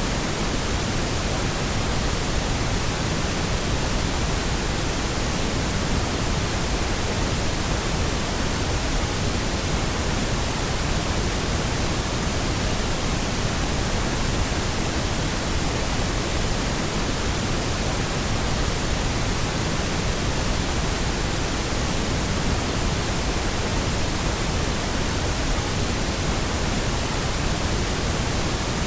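Steady pink noise: an even, unbroken hiss spread across the whole range from deep rumble to high hiss, with no tones or events.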